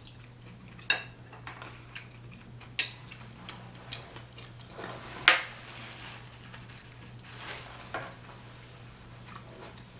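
Cutlery clinking and scraping against a plate: a series of sharp clicks, the loudest about five seconds in.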